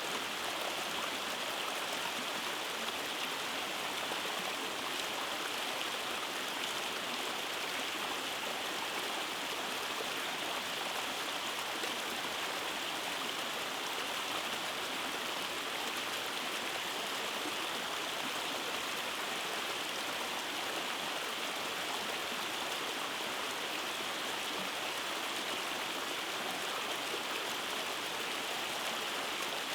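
Rainforest creek cascading over rocks: a steady rush of flowing water and small waterfalls.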